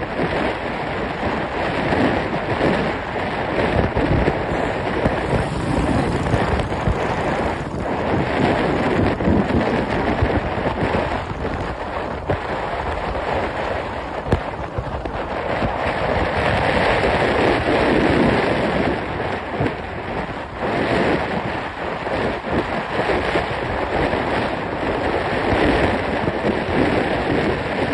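Wind buffeting the microphone: a loud, rough rushing noise that swells and dips unevenly.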